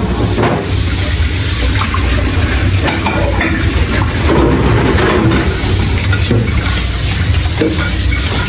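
Water running and spraying steadily at a commercial dishwashing station, with a low machine hum and a few short clatters of dishes.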